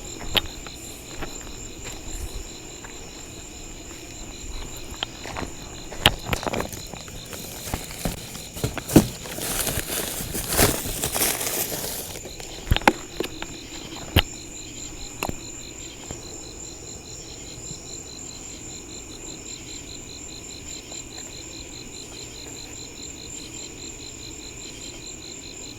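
Steady chorus of crickets and other night insects, one of them a fast pulsing trill. Several sharp cracks and knocks come in the first half, with a few seconds of louder rustling noise in the middle.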